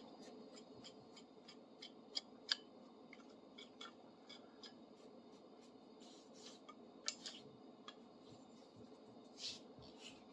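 Faint, scattered metallic clicks and ticks from a freshly restored and oiled big adjustable wrench being handled, a few of them sharper, over near silence.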